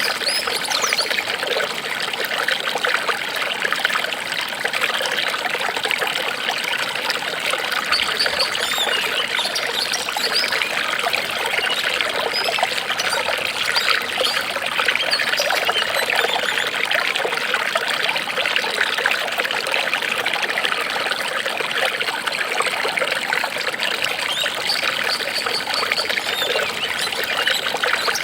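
Water trickling and babbling steadily, like a small stream or fountain running over stones, without pause.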